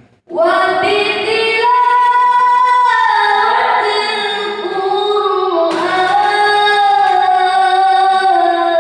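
A young singer's solo voice, the voice of a pesantren student, singing a slow melodic line. It comes in about a third of a second in and holds long notes with gliding, ornamented turns in pitch.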